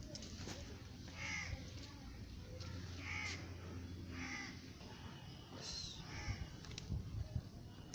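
A bird calling, four separate calls spaced a second or two apart.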